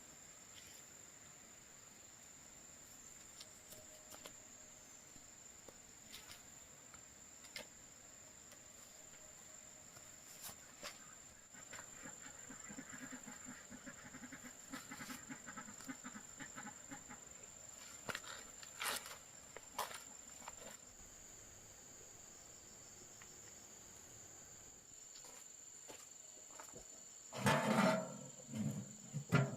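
Insects singing outdoors as one steady, high, thin drone, with faint scattered clicks and rustling. Near the end there is a short, much louder, rough call.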